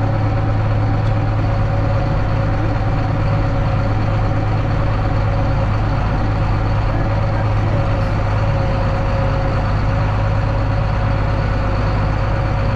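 Heavy farm diesel engine running at a steady speed: an even, unbroken drone with a strong low hum.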